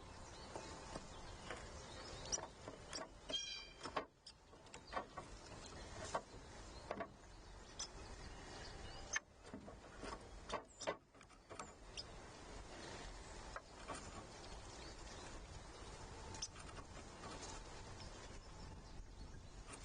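Faint, irregular clicks and taps of birds pecking seed on a wooden-composite platform feeder, with one brief rapid bird call about three seconds in.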